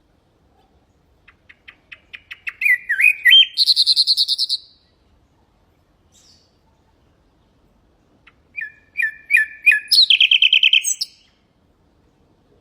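Nightingale singing two phrases, each opening with a run of quiet notes that speed up, then a loud, rapid trill.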